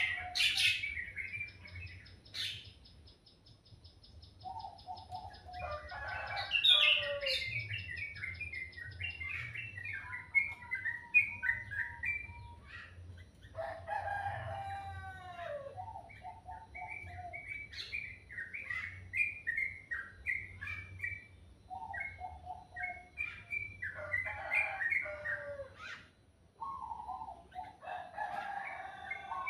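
Several songbirds singing in varied, quick chirping and whistled phrases, with a high, thin, even trill held for several seconds near the start.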